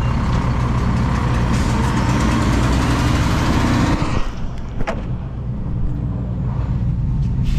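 Heavy diesel engines: a steady low engine drone runs throughout, under a louder rushing noise that drops away suddenly about four seconds in, with a couple of clicks after.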